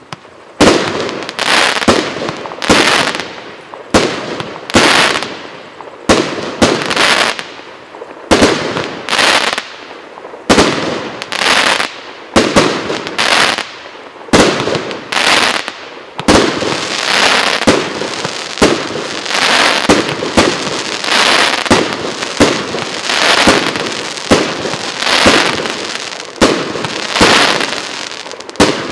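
A 48-shot, 1.1-inch consumer fireworks cake (Русская пиротехника PC7385 'Магия серебра') firing shot after shot, with the shells bursting about one to two times a second. From about halfway through, a continuous crackling from crackling silver and gold stars fills the gaps between the bursts.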